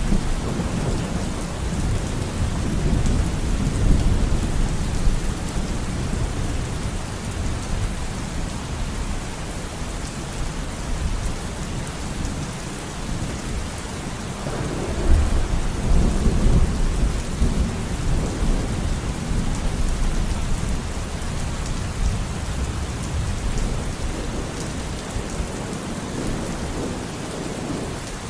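Steady rain with rolling thunder. Low rumbles swell and fade, the heaviest at the start and about halfway through.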